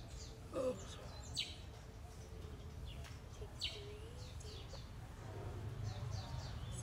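Small birds chirping: short, quick falling chirps repeated every second or so. Underneath is a low steady rumble, and there is a brief louder low sound about half a second in.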